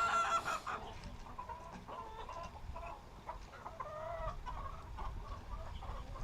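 Chickens clucking, with a loud call right at the start and then scattered short clucks.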